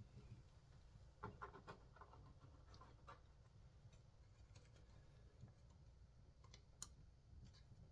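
Faint clicks and light scraping of small parts and a screwdriver being handled while a chainsaw's recoil starter is worked on, with a cluster of small clicks and rattles about a second in and a few sharper ticks near the end, over a low hum.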